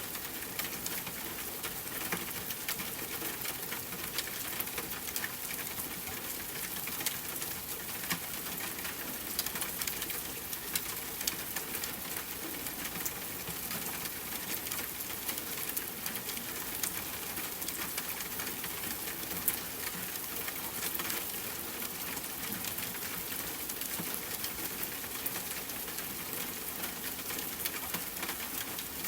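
Rain falling steadily in a forest mixed with a crackling campfire: an even hiss of rain with many small sharp pops and clicks scattered throughout.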